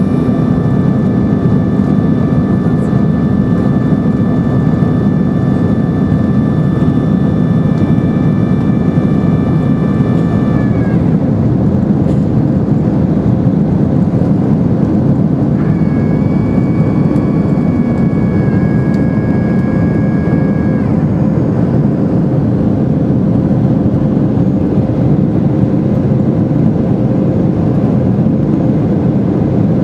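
Boeing 747 cabin noise from inside the airliner: a steady, loud low rush of the jet engines and airflow. Thin high whines sound over it, stopping about eleven seconds in, and another runs from about sixteen to twenty-one seconds.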